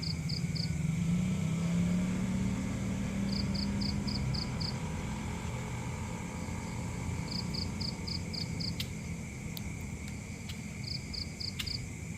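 A low vehicle engine rumble that fades away, with an insect chirping in quick runs of about six high-pitched notes every three to four seconds, and a few faint clicks near the end.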